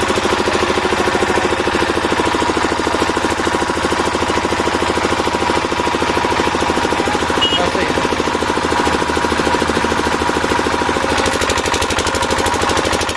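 A construction-site machine running steadily with a rapid, even hammering beat.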